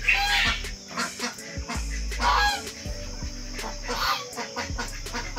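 Domestic geese honking: a loud call at the start and another about two seconds in, with fainter calls between.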